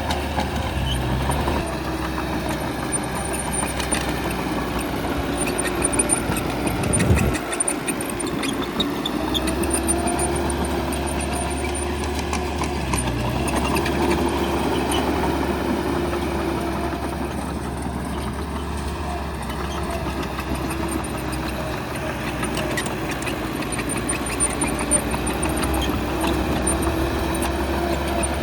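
Heavy diesel engine of a bulldozer running steadily at work, with a brief louder clatter about seven seconds in.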